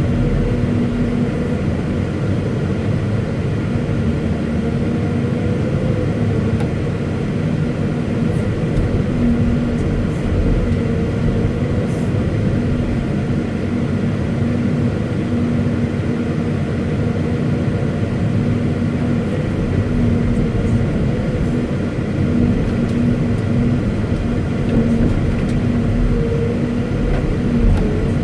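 Caterpillar 329E hydraulic excavator's diesel engine running steadily under a constant low rumble, with a steady hum in its note.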